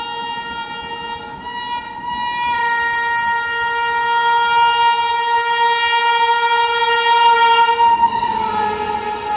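WAP-7 electric locomotive's horn held in one long blast, growing louder as the train approaches at speed, its pitch dropping slightly about eight seconds in as it passes.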